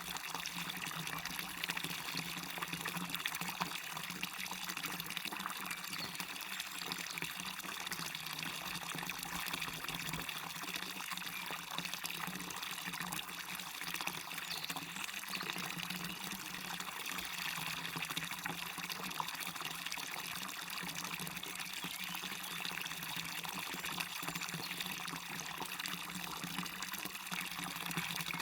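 Waterfall and stream running: a steady rush of splashing water that does not change.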